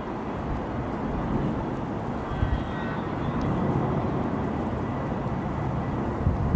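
Jet airliner engine noise: a steady low rumble with a faint, constant high whine.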